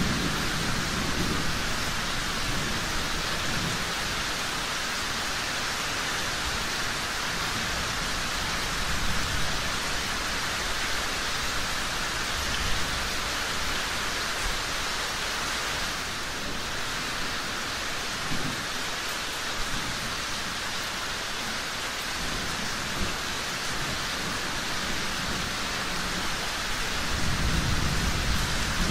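Steady rain falling, with low rolling thunder rumbling at the start and building again near the end.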